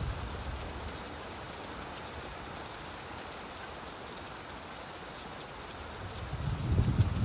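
Steady rain hiss, with a low rumble of thunder fading at the start and another swelling up near the end.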